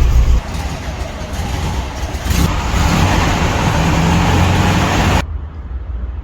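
1970 Volkswagen Variant's 1600 cc air-cooled flat-four engine held at raised revs, then dropping suddenly back to a low idle about five seconds in.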